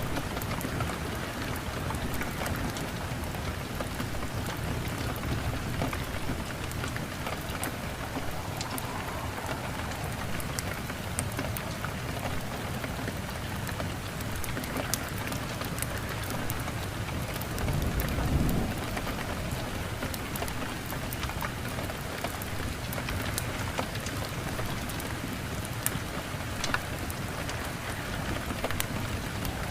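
Steady rain, with scattered sharp clicks throughout and a low rumble of thunder swelling briefly about eighteen seconds in.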